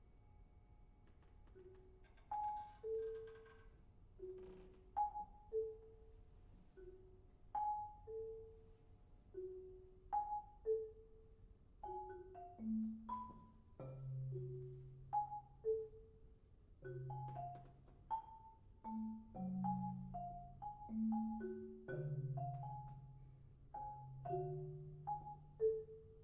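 Two marimbas and a vibraphone playing sparse, separate struck notes that ring and fade, in a slow repeating figure. The notes grow denser, with low marimba notes joining about halfway. The first couple of seconds are nearly silent before a bright stroke.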